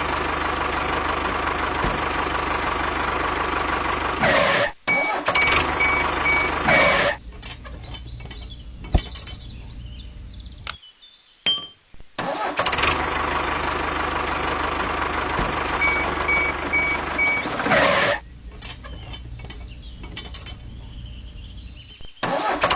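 A motor running steadily, which drops to a quieter hum and comes back loud a few times, with abrupt cuts between the stretches.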